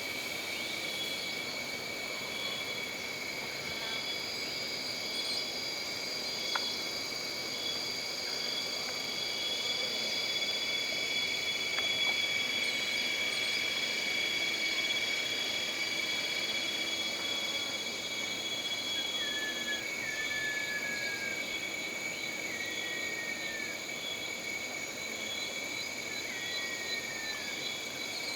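Jungle ambience of layered insects droning steadily at several high pitches, one of which stops about two-thirds of the way through. A few short, falling whistled calls sound in the second half.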